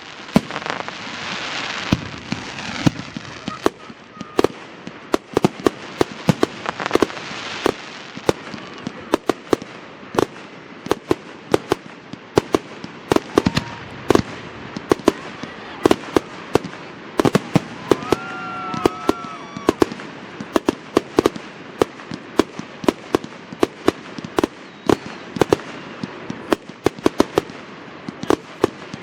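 Fireworks display: a dense, continuous barrage of sharp firework bangs, several a second, over a bed of crackling.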